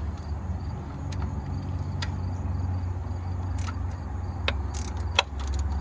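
Wrench working loose the alternator mounting bolt: a handful of irregular short clicks and taps over a steady low rumble.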